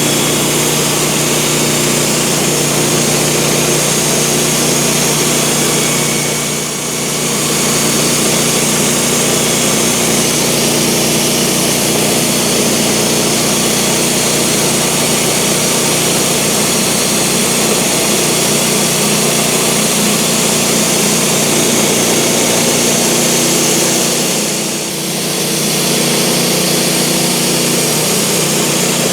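Sawmill engine running steadily under load as the blade saws boards from a cant, with two brief dips in level, about seven and twenty-five seconds in.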